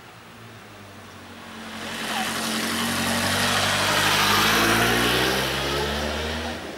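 Electric multiple-unit train passing close by: its running noise swells over a couple of seconds, carrying a hum of several steady tones that bend slightly, then drops away sharply near the end.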